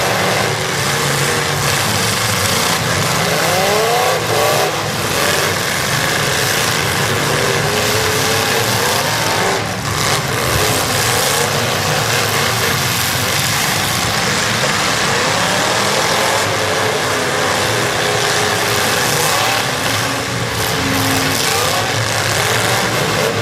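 Demolition derby cars' engines running loud and revving up and down, several at once, with a couple of sharp knocks about 5 and 10 seconds in.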